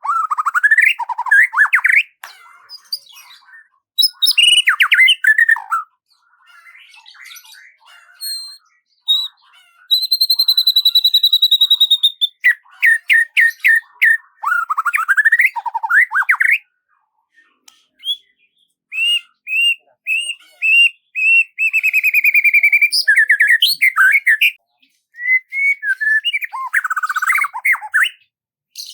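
Songbird singing a varied, fast-changing song of chirps, rapid trills and sweeping whistled notes in phrases with short pauses between them, including one steady high whistle held for about two seconds partway through.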